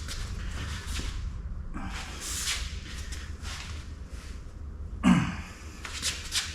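A man breathing hard in several audible exhales while he works the pipe bender by hand, then a short grunt about five seconds in and a few sharp metal clicks near the end, over a steady low hum.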